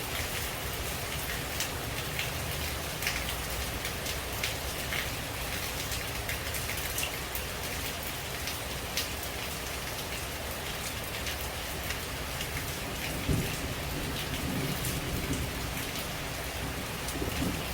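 Steady rain falling on leaves, with individual drops ticking throughout, and a low rumble of thunder about two-thirds of the way through.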